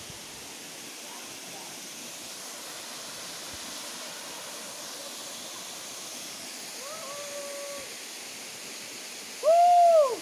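A tall waterfall rushes steadily. About seven seconds in comes a fainter held call, and near the end a loud short call that rises and then falls in pitch.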